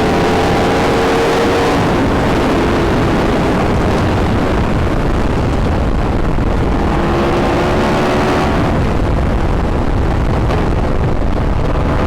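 Yamaha YZF-R1 sport motorcycle under way: a loud, steady rush of wind noise over the engine, whose faint note climbs gently in pitch in the opening seconds and again after about seven seconds.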